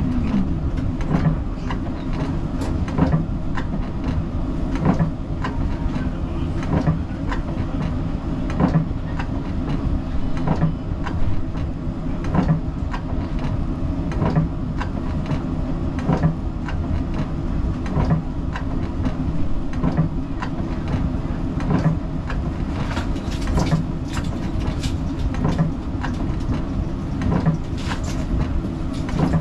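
Siemens Combino tram running on street track: a steady rumble of wheels and traction gear with a low hum, and a sharp click about every two seconds. A short falling whine sounds right at the start.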